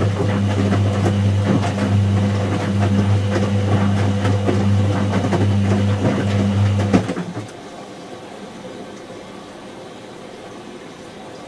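Whirlpool AWG023 H-axis top-loader washing machine running with a steady motor hum and light rattling. About seven seconds in the motor stops, leaving a much quieter hiss.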